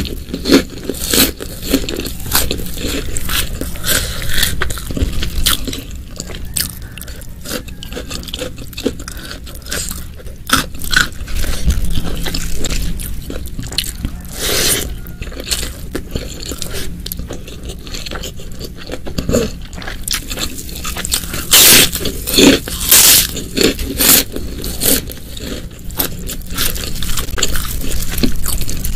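Close-miked eating sounds: a person biting and chewing a meal of spicy beef ribs, water spinach and raw petai, with irregular crunches and scraping, and a run of louder bites about three-quarters of the way through.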